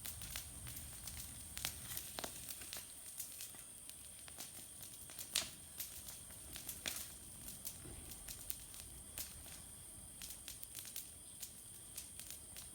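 Wood campfire crackling: irregular sharp pops and snaps, two of them louder about five and seven seconds in.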